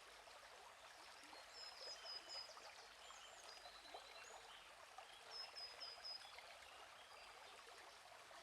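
A quiet, steady babble of a small stream, with birds chirping over it. The birdsong is short high whistled notes, including runs of four or five quick notes about two seconds in and again around five and a half seconds in.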